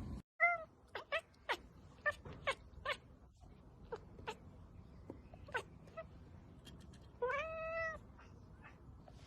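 Domestic cat meowing: a quick run of short mews in the first few seconds, a few more scattered, then one longer meow near the end.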